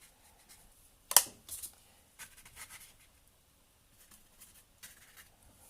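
Paintbrush scrubbing and dabbing acrylic paint on canvas in short, scratchy strokes, with one sharper knock about a second in.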